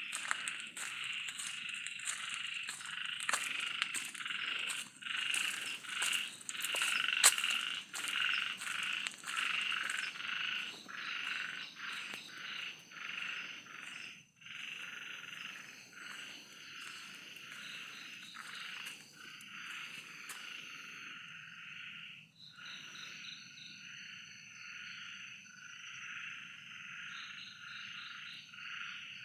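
A continuous chorus of rapidly pulsing animal calls, with scattered sharp clicks in the first ten seconds and a faint steady high whine joining about eleven seconds in.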